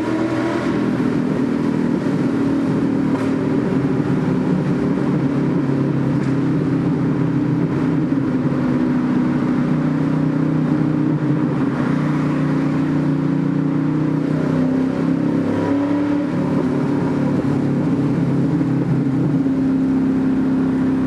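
TVR Chimaera's V8 engine running through a fully decatted exhaust with sleeved silencers, driven through a tunnel. It holds a mostly steady note, with a rise in revs at the start and a few brief changes in pitch later on.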